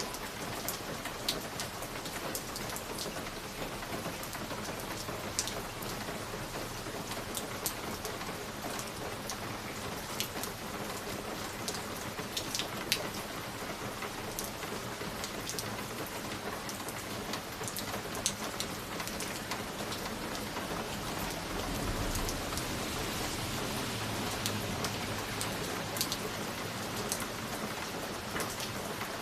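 Wood fire crackling: scattered sharp pops and snaps over a steady hiss. A low rumble swells in about three-quarters of the way through and fades a few seconds later.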